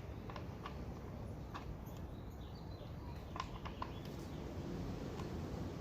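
Scattered light clicks and taps from small metal parts of a recoil pull-start assembly being handled and fitted, about eight of them, over a steady low background hum.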